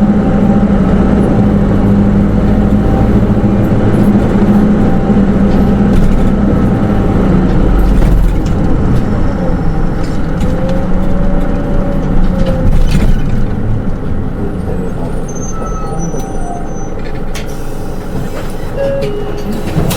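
Hino Rainbow II (SDG-KR290J1) automatic bus heard from inside the cabin: the diesel engine pulls with a steady low drone for about eight seconds, then eases off and the running sound drops, with a brief whine and some light rattles and clicks towards the end.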